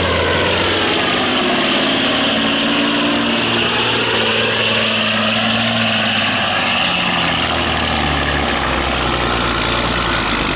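Semi truck's diesel engine running hard under full load as it pulls the sled, with a loud hiss over the engine's deep note. The engine pitch shifts a few times as it loads down and picks up.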